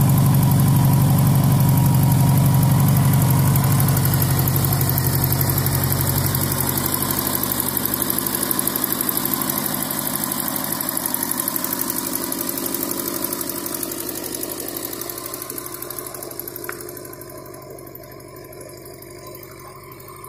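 1984 Honda Gold Wing GL1200's liquid-cooled flat-four engine idling steadily, growing gradually fainter, with one brief click near the end.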